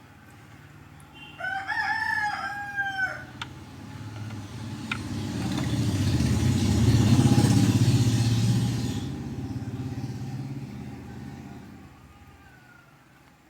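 A rooster crows once, about a second in. Then a motor vehicle passes, growing louder to a peak midway and fading away.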